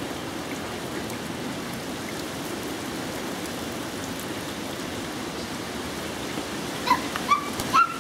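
Steady rain falling. Near the end a dog gives a few short, high yips.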